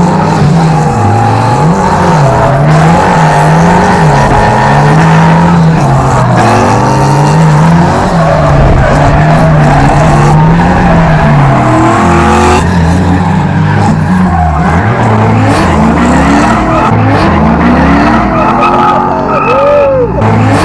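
Drift car's engine, heard from the passenger seat, with its revs swinging up and down about once a second as the driver works the throttle through a drift, and tyres squealing. About twelve seconds in, the engine note drops lower and then climbs again in repeated rising pulls.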